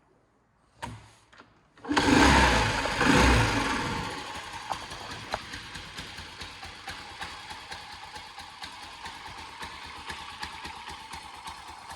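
Honda C90 Cub's small four-stroke single-cylinder engine starting: a short sound just under a second in, then the engine catches about two seconds in with a loud burst and briefly revs, then settles into a steady idle.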